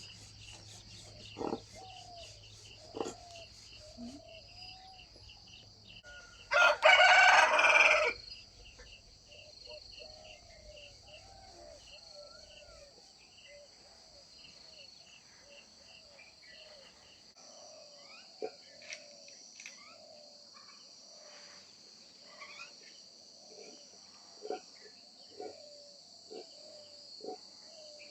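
A country rooster crowing once, loudly, about seven seconds in, the crow lasting about a second and a half. Chickens cluck softly on and off around it, over a steady high insect chirring.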